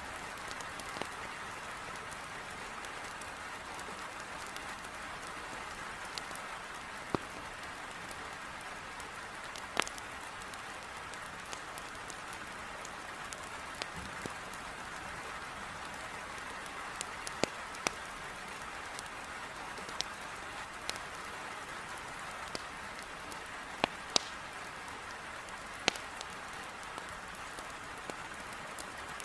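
Heavy rain beating on a window as a steady hiss, with a dozen or so sharp pops scattered through it from crackling firewood in a fireplace.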